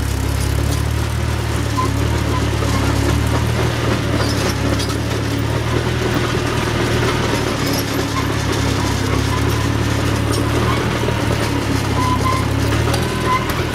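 T340 crawler loader/backhoe's engine running steadily under a ride, with a few scattered clanks over it.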